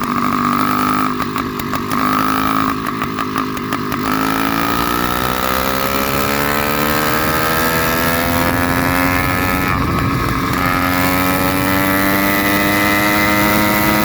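Zeda 66/80cc two-stroke motorized-bicycle engine running loud with its muffler cap and air filter cover removed. Uneven for the first few seconds, it then climbs steadily in pitch from about four seconds in as the revs rise.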